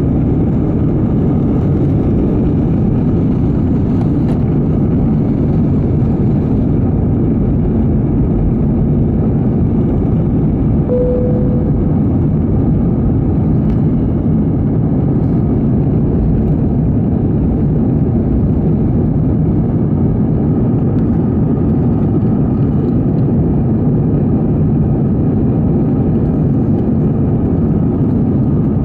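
Steady rush of an Airbus A320's jet engines and airflow heard from inside the passenger cabin, the aircraft under power around takeoff and climb-out. A brief single tone sounds about eleven seconds in.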